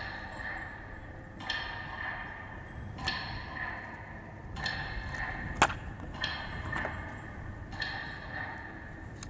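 Slow metronome beats relayed over loudspeakers, one about every second and a half, each ring echoing away, marking the minute of silence. A sharp click about five and a half seconds in is the loudest sound.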